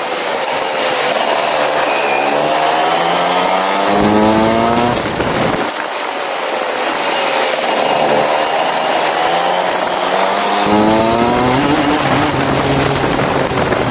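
Go-kart engine accelerating hard, its buzzing pitch climbing steadily for a few seconds, dropping off as the throttle is lifted about four seconds in, then climbing again through a second long pull.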